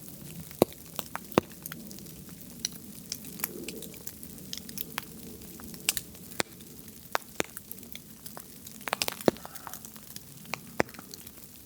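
Sausage and vegetables sizzling in a cast iron pan over a wood fire, with irregular sharp pops and crackles.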